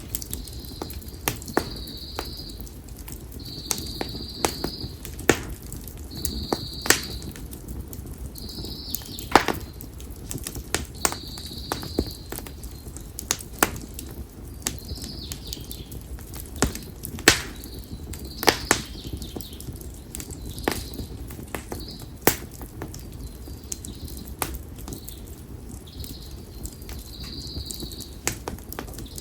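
Konara oak firewood burning in a bonfire, crackling with sharp, irregular pops over a low steady rush of flame. A short high call, typical of a bird, repeats every couple of seconds.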